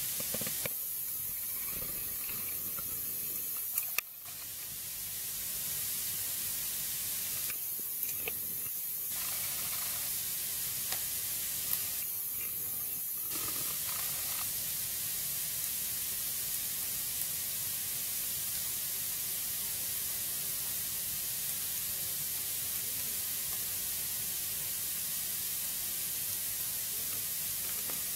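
Wood fire burning in a fireplace: a steady hiss with a few brief sharp pops and crackles.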